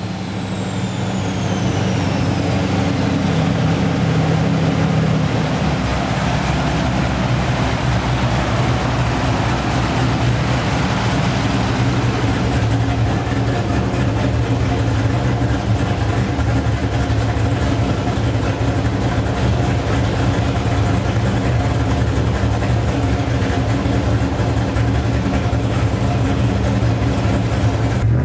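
Camaro Z28's LS1 V8 with a G5X4 cam idling steadily on the dyno. A high whine falls away over the first few seconds, under the steady hiss of a large shop cooling fan.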